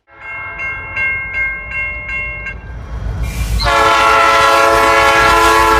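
A locomotive horn sounds a long, loud, steady chord from about three and a half seconds in. Before it, a steady ringing tone pulses about three times a second.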